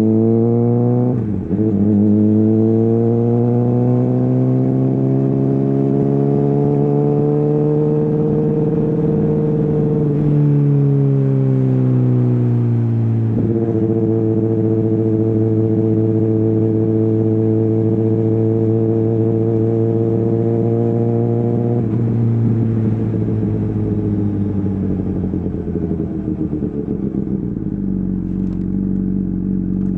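Honda CBR600RR inline-four through an Akrapovic exhaust, running under way. The revs climb with a brief break about a second in, like a gearshift, then rise slowly and ease back down. About halfway they jump up suddenly and hold steady, then drop off and settle to a low, even note near the end.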